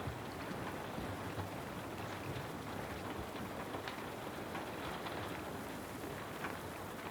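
Steady rain falling, with many small individual drop hits scattered through it.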